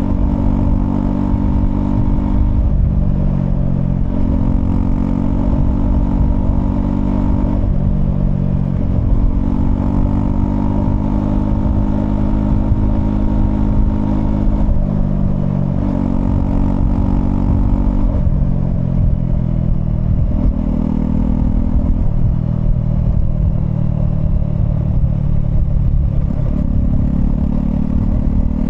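Honda CL250 scrambler's single-cylinder engine running under way, its pitch climbing and then dropping in steps every few seconds as the rider works through the gears, over a constant low rumble of wind and road.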